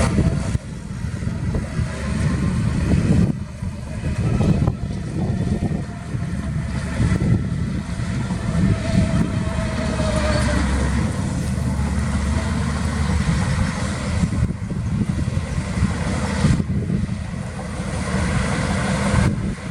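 Heavy diesel engines of earthmoving machines running under load: a steady low rumble with a few brief dips in level.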